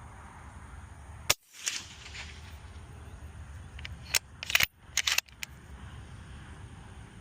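Suppressed rifle fire through a Diligent Defense DTF STI suppressor: one sharp shot about a second in, then a quick cluster of sharp cracks about four to five seconds in.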